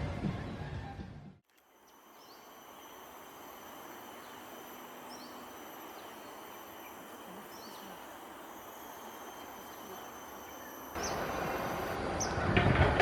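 Outdoor ambience of insects trilling steadily at several high pitches, with a few brief bird chirps. It is cut into by louder rumbling noise for about the first second and again for the last two seconds.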